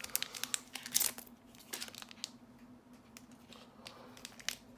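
Crinkling and sharp clicks of a Magic: The Gathering booster pack's wrapper and cards being handled, thickest in the first second and again near the end.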